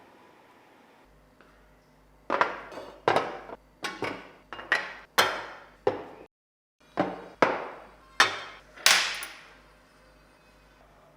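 Hammer blows, about ten sharp strikes each with a short ringing decay, in a steady run broken by a brief gap in the middle; the last strike is the brightest.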